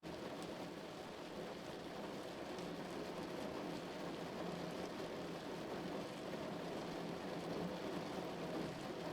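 Steady rain drumming on a car's roof and windows, heard from inside the car, with small drop ticks scattered through an even hiss.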